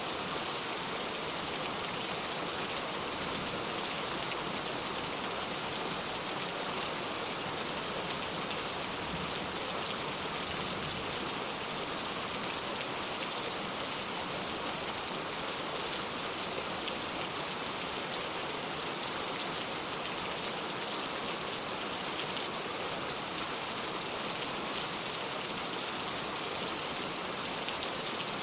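Steady rain falling on the ground, a dense even patter of drops without let-up.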